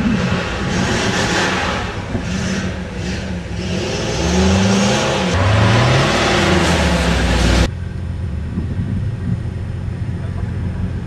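Off-road 4x4 engine revving hard as it drives over soft sand dunes, its pitch rising twice, over a steady rush of noise. About two-thirds in the sound cuts off abruptly to a quieter low rumble and hiss.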